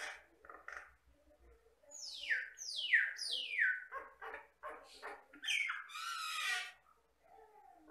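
A common myna (Jalak Batam) singing. About two seconds in come three loud whistles, each sliding steeply down in pitch, followed by short choppy notes and a harsh, buzzy call.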